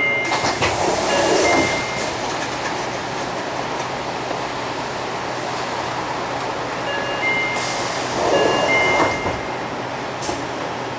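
Inside a UD Space Runner RA city bus standing at a stop, its diesel engine idling. The pneumatic doors hiss open to a beeping door chime at the start. About seven and a half seconds in they hiss shut, with the chime sounding again.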